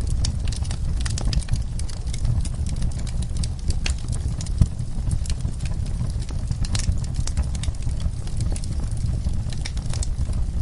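Wood fire crackling in a fireplace: dense, irregular snaps and pops over a steady low rumble, with one sharper pop about halfway through.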